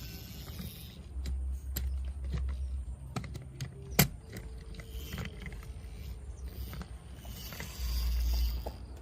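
Toy trucks being handled and moved: scattered small clicks and knocks, one sharp loud click about four seconds in, with two spells of low rumble.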